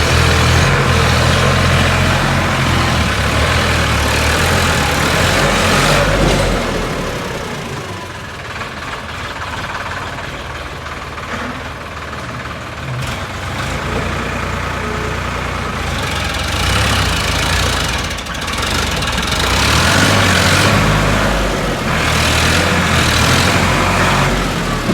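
Sonalika 745 tractor's diesel engine running hard. It eases off after about six seconds, then builds back up to full power in the last third.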